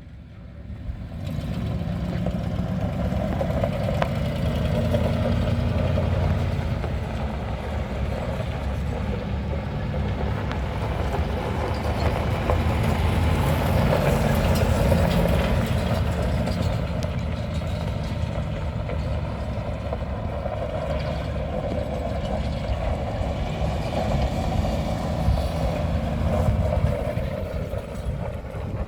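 2009 Ford F-350 service truck's engine running steadily at idle.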